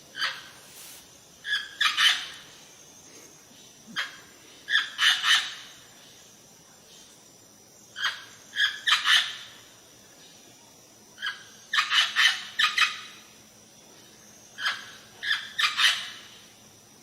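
A bird calling in a repeated phrase: one short note, then a quick run of three or four loud notes, the phrase coming back about every three to four seconds.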